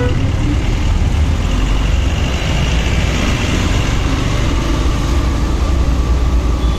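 Motorcycle riding in traffic: a steady low engine and road rumble that holds an even level throughout.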